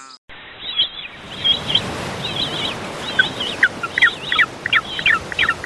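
Birds chirping in quick, repeated high notes over a steady background hiss.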